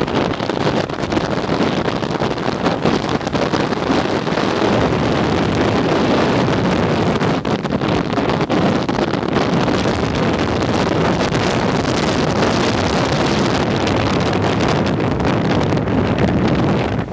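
Strong wind buffeting the microphone: a loud, steady rush with no let-up.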